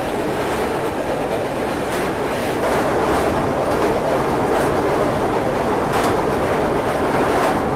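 Passenger train running at speed, heard from on board at the side of a coach: a steady rumble of wheels on rails, with a faint click of the wheels over rail joints every second or so.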